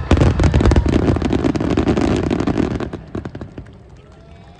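Aerial fireworks bursting in a dense volley: rapid booms and crackles that die away after about three seconds.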